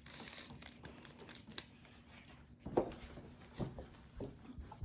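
Faint rustling and crinkling as a spray bottle and microfiber towel are handled, with a few soft knocks from about three seconds in.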